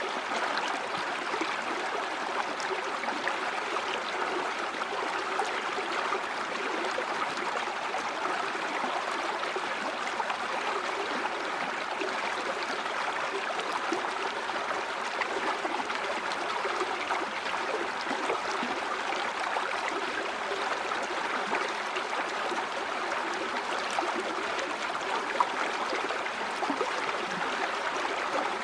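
River or stream water flowing steadily over rocks, a constant rushing with small gurgles and splashes.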